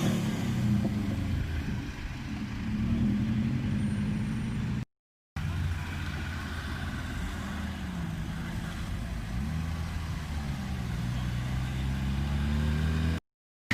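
Car engine running at low revs with a deep rumble, its pitch drifting up and down as it is blipped and eased off. The sound cuts out completely twice, briefly, about five seconds in and just before the end.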